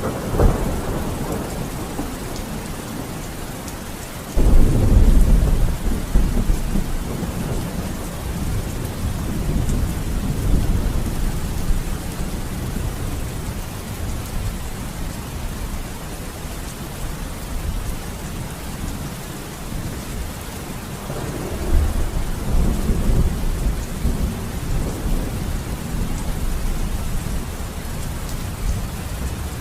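Steady heavy rain with thunder. A sudden loud clap about four seconds in rolls on as a deep rumble for several seconds, and a second rumble starts about twenty-one seconds in.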